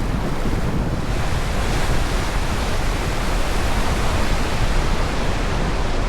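Whitewater of a Class 3 river rapid rushing around the raft, a steady, unbroken wash of water noise.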